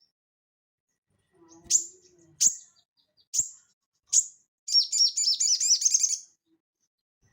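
A sogon (sogok ontong) songbird singing: four sharp, high chirps about a second apart, then a fast run of repeated notes lasting about a second and a half.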